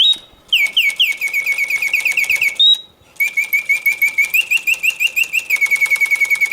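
Reuge double singing bird cage's mechanical birdsong: a bellows-driven whistle playing fast trills of chirps, about eight a second, broken by one short held note and a brief pause about three seconds in. The cage is running on its continuous setting.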